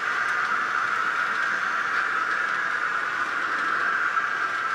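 Model railroad train running steadily along the track, a continuous even hiss.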